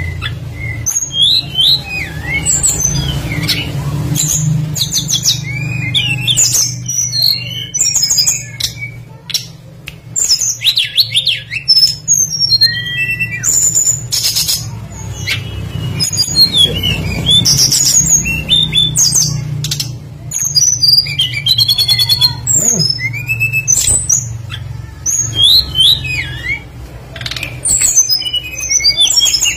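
Tledekan songbird singing a rapid, varied song of short chirps and quick rising and falling whistled notes, nearly without pause, over a steady low hum.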